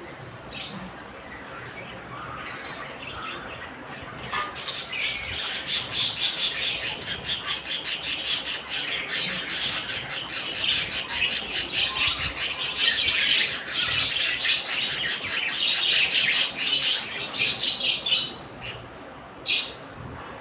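Small pet parrots chirping fast and shrilly, several chirps a second for about twelve seconds, then a few separate calls near the end.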